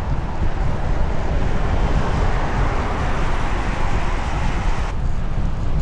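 Wind buffeting the microphone of a moving bicycle rider, over a steady hiss of tyres on wet pavement. The hiss cuts off suddenly near the end.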